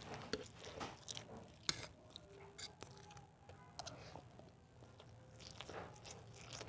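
Close-miked eating sounds: a mouthful of dry noodles being chewed, with scattered sharp clicks and crackles.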